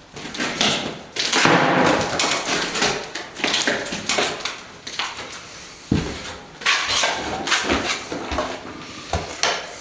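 Steel plastering trowel scraping and spreading a sand and stopping-plaster mix into a patch on a lath-and-plaster wall, in repeated strokes with a few light knocks.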